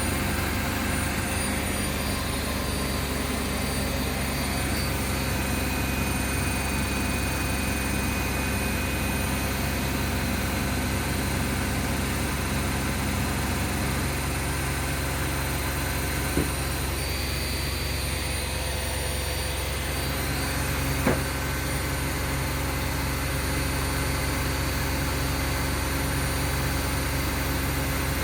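Two washing machines, a Bosch Classixx and a Hoover, spinning together on their final spin: a steady whirring hum made of several held tones, one of which shifts about halfway through. Two brief clicks come in the second half.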